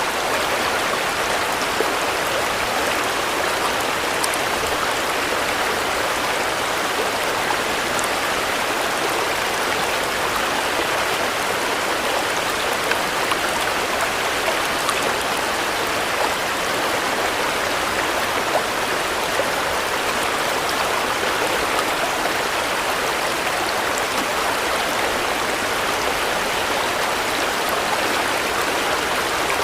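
Steady, even rain falling, a constant hiss of drops with a few faint individual drop ticks.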